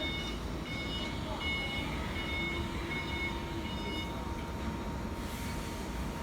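Electric forklift's warning beeper sounding in short repeated beeps, about two a second, over a low rumble of the truck moving; the beeping stops about four seconds in. A short hiss follows near the end.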